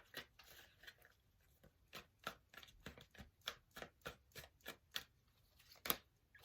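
Tarot deck being shuffled by hand: a quick run of soft card slaps and clicks, about four a second, with a short pause about a second in.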